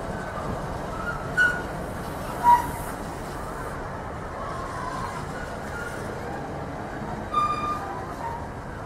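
A train running through the station with a steady rumble and wind noise, and three short high squeals, the loudest about two and a half seconds in.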